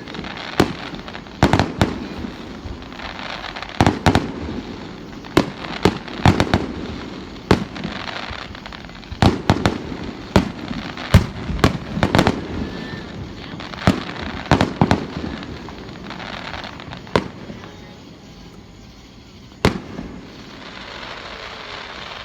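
Aerial fireworks going off in quick, irregular succession: sharp bangs with crackling between them. The bangs thin out near the end, and one last bang comes a few seconds before the close.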